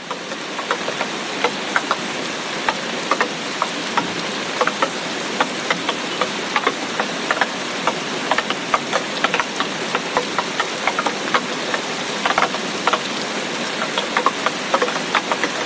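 Heavy tropical rain: a steady hiss of rainfall with many distinct, irregular drop hits ticking through it, building up briefly at the start.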